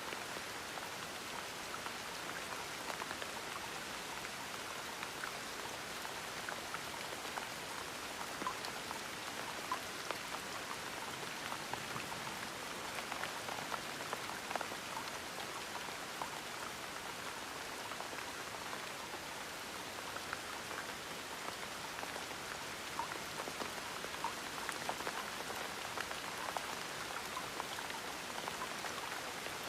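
Gentle rain falling steadily, an even patter with scattered small drop sounds.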